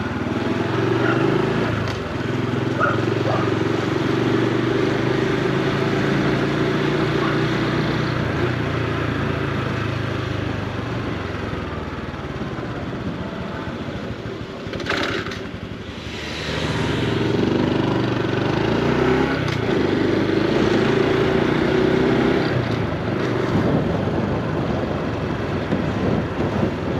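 Honda Super Cub C125's single-cylinder four-stroke engine and exhaust while riding. The engine eases off for a few seconds around the middle, with a brief whoosh, then pulls steadily again.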